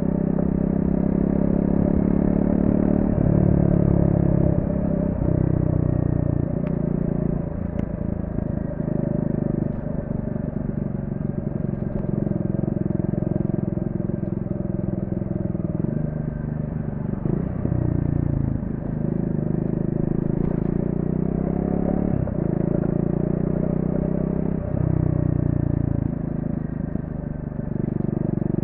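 Triumph Speed 400's single-cylinder engine on its stock exhaust, ridden hard through a run of corners. The engine note climbs and drops again and again as the throttle opens and closes and the gears change.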